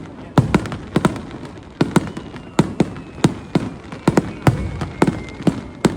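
Aerial fireworks shells bursting in rapid, irregular succession: sharp bangs, several a second, over a low rumble.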